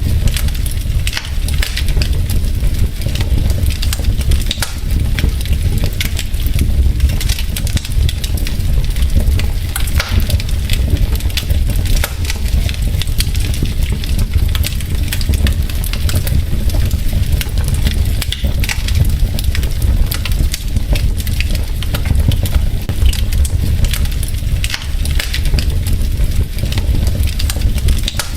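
Wood fire crackling in a fireplace: logs popping and snapping in quick, irregular clicks over a steady low rumble from the flames.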